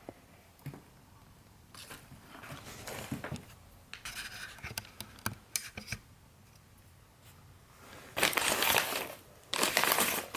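Old paper rustling and crinkling as it is handled, in two loud bursts near the end, after a few seconds of small scattered clicks and scrapes from objects being moved.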